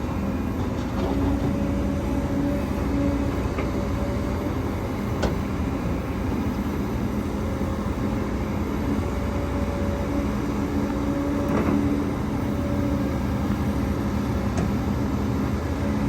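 Heavy diesel earthmoving machinery running steadily, with a few brief sharp knocks.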